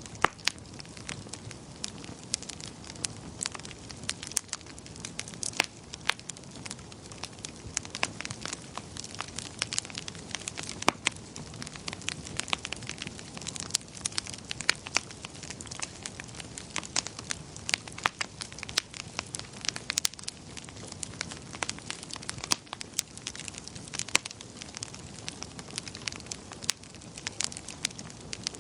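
Wood fire burning in a fireplace, crackling: many sharp, irregular pops and snaps over a steady low rumble of the flames.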